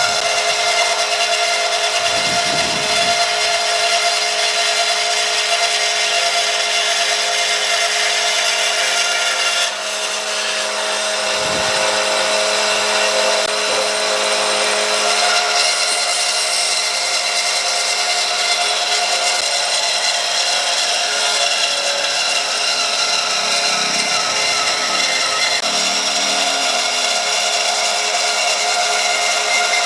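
Electric power tool running steadily while working hardwood, its motor whine holding a constant pitch, with a brief drop in level about ten seconds in.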